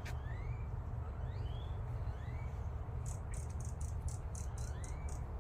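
Birds calling outdoors: short, rising whistled notes repeated every half second to a second, with a quick run of high, rapid chips or clicks about three seconds in, over a steady low rumble.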